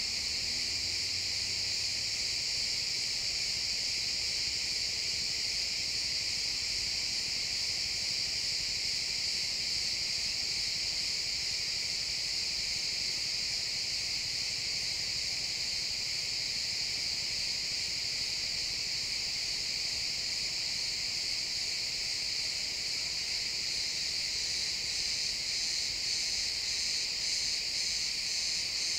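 A dense, steady chorus of many crickets chirping, with a faint pulsing rhythm near the end.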